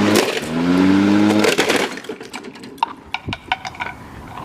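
Lawnmower revving up twice, each time with a rising pitch, then a run of sharp cracks and crunches as the remains of plastic toys are broken up under the mower.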